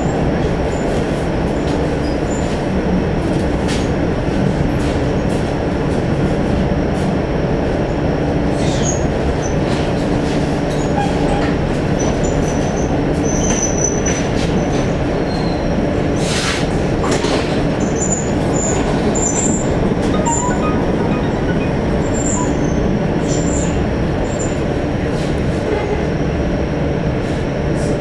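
Electric commuter train running at speed, heard from inside the carriage: a steady rumble of wheels on rails with a few brief high squeaks partway through.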